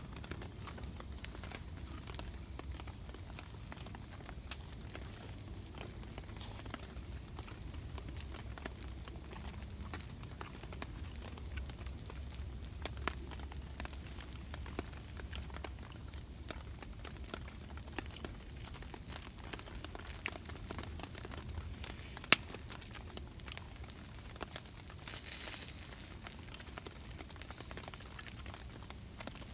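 Rain pattering and a campfire crackling: scattered sharp pops and ticks over a low steady rumble. There is a short hiss about 25 seconds in.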